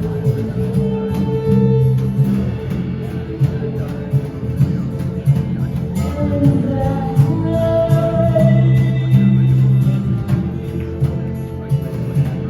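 Live band music led by guitar, with light percussion ticking a steady beat.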